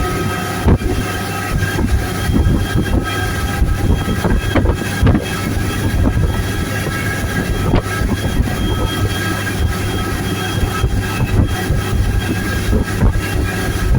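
Motorboat engine running steadily at speed, with wind buffeting the microphone and irregular knocks throughout.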